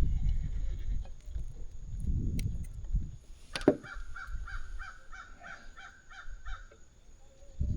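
Low rumble for the first few seconds and a sharp click about halfway, then a bird calling in a quick series of about nine calls, roughly three a second.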